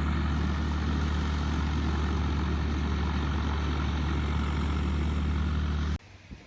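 Small propeller airplane's piston engine running steadily on the ground, a low, even drone. It cuts off abruptly near the end.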